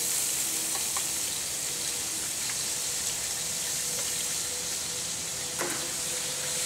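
Onions and other vegetables sizzling steadily in hot oil, a high frying hiss with a few faint crackles.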